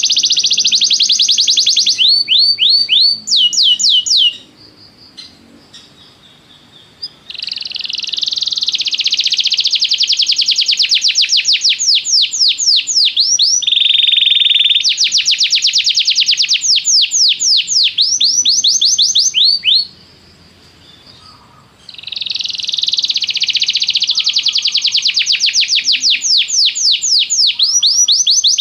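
Domestic canary singing long phrases of fast, rapidly repeated trills. The song breaks off twice, for about three seconds starting some four seconds in and for about two seconds around twenty seconds in, then resumes.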